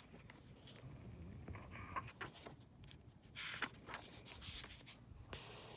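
Faint rustling and light clicks of a book being handled, with one louder papery swish about three and a half seconds in, like a page being turned.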